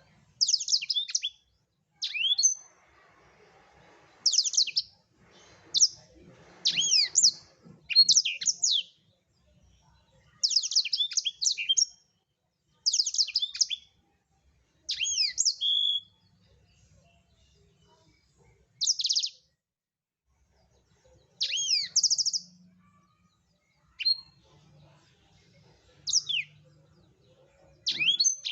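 Blackthroat (black-throated canary) singing in short, high, fast phrases of trills and down-slurred notes, one phrase every second or two with brief pauses between them.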